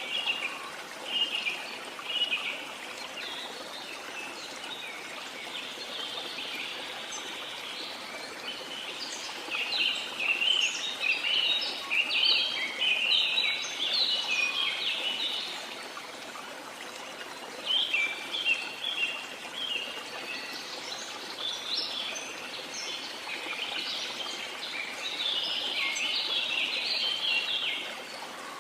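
Rainforest ambience: many birds chirping in quick, busy bursts over a steady hiss of water. The chirping thins out for a while in the middle, then picks up again.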